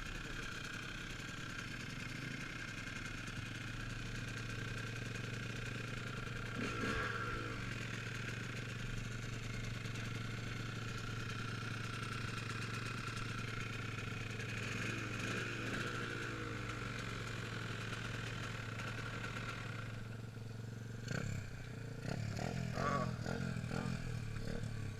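Dirt bike motor running steadily, its pitch swelling twice as it speeds up, then dropping off, with a few clattering knocks near the end.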